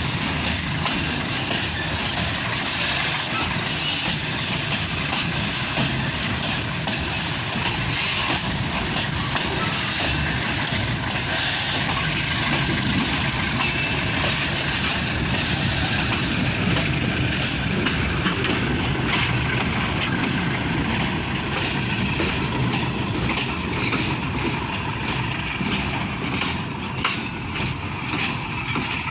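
Loaded ore freight train passing: a steady rumble and rattle with many sharp wheel clicks. The high hiss thins out near the end.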